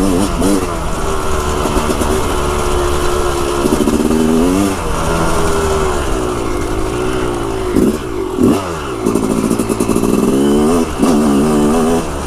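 Yamaha dirt bike's engine being ridden, its pitch rising and falling again and again as the throttle is worked, with a sharp drop about eight seconds in.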